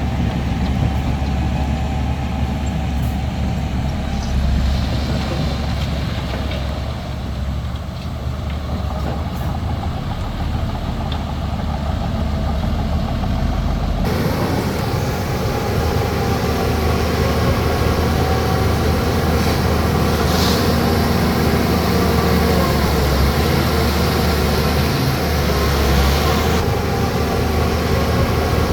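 Heavy diesel engine of a bulldozer running steadily while working. The engine note changes abruptly about halfway through, and a brief hiss comes near the two-thirds mark.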